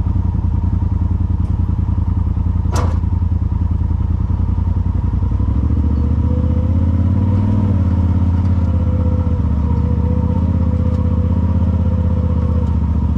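Side-by-side UTV engine running while driving a trail, with a steady chug of engine pulses that evens out into a smoother drone about five seconds in. One sharp knock about three seconds in.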